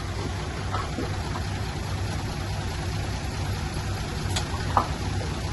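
Heavy diesel engine of earthmoving machinery running steadily under a broad rushing noise, with a couple of short sharp clinks near the end.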